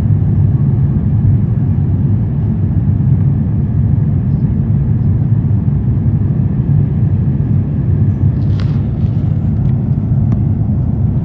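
Airbus A350-1000 cabin noise in flight: a steady low rumble of engines and airflow, with a couple of faint ticks late on.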